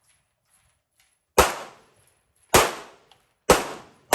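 Pistol fired in slow, steady shots: four sharp reports about a second apart, the last right at the end, each with a brief fading ring.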